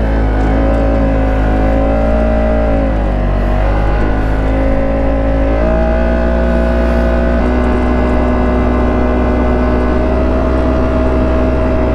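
Polaris RZR side-by-side engine running under sustained throttle. Its pitch dips about three seconds in, rises again a little before the middle, then holds steady.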